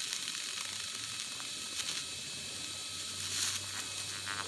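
TIG welding arc sizzling while a quick small tack weld is laid to hold a nut in place, with a low steady hum in the last second or so.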